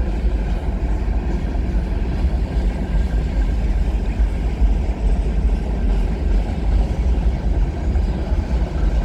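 Freight train of tank cars rolling past, a steady rumble of wheels on rail.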